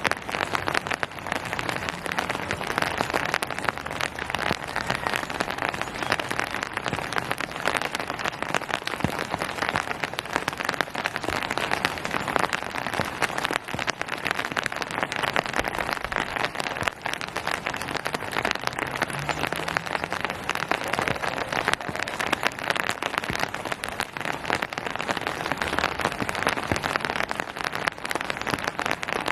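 Steady rain pattering on surfaces, a dense patter of many small drop impacts.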